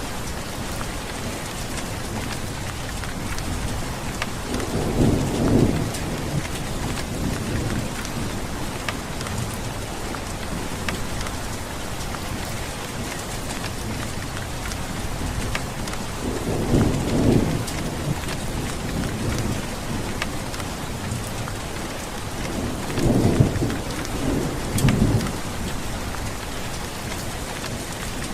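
Steady heavy rain hissing, with scattered drop ticks, and rolls of thunder rumbling low three times: about five seconds in, around the middle, and a double roll about three quarters of the way through.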